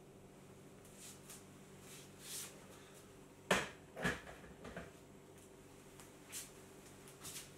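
A few sharp knocks and clicks of kitchen things being handled at a counter, the two loudest about three and a half and four seconds in, with lighter taps later, over a faint steady hum.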